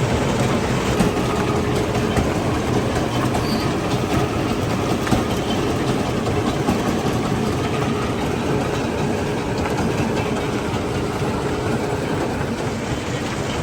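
Stone crushing plant machinery running: a steady heavy rumble with a dense clatter of rock and a faint steady hum.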